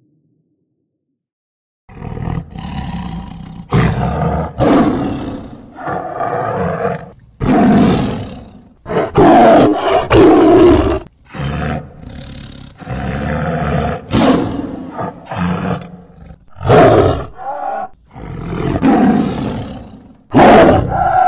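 Tiger roaring in about a dozen loud bouts, each one to two seconds long, beginning about two seconds in.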